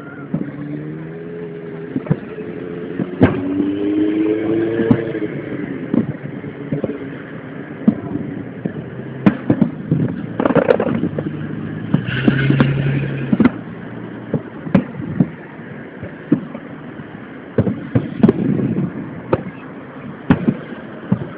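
Aerial fireworks shells launching and bursting, an irregular series of sharp bangs close together, sounding dull and thin through a mobile phone's microphone.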